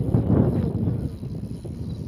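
Wind buffeting the microphone: a low rumbling noise, strongest in the first second and then easing off.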